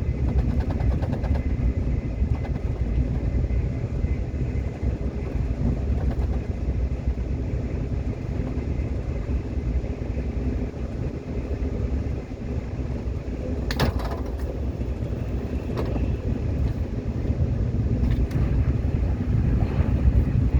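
Subway train running on the rails: a steady low rumble, with a few sharp clacks about two-thirds of the way in and again near the end.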